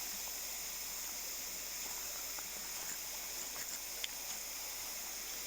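Steady rush of a shallow river flowing over rocks, with one faint click about four seconds in.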